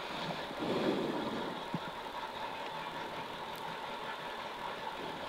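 Peugeot 106 Rallye's engine idling steadily, heard from inside the car's cabin while it waits stationary.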